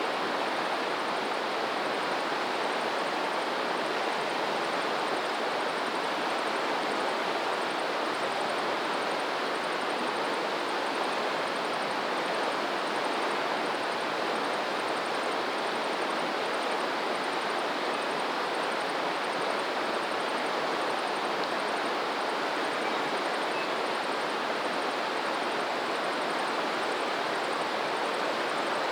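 Steady, even rush of flowing water, with no breaks or changes.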